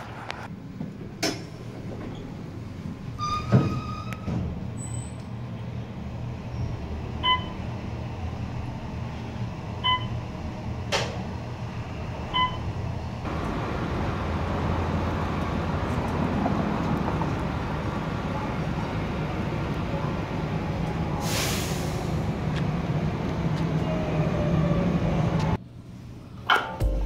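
Transit ambience with a steady low rumble of vehicles and a short electronic beep every two to three seconds. About halfway it becomes a louder rail-station rumble as a light-rail train runs, with a short hiss of air, likely brakes, later on.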